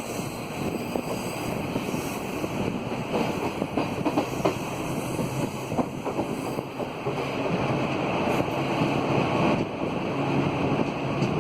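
Passenger train running at speed, heard from on board: a steady rush of wind and rolling noise with irregular clacks of the wheels over the rails, growing a little louder past the middle.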